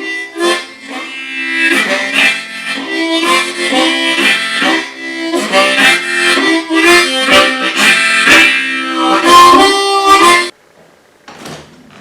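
Diatonic harmonica playing, with several notes sounding together and changing in a loose rhythm, breaking off abruptly near the end.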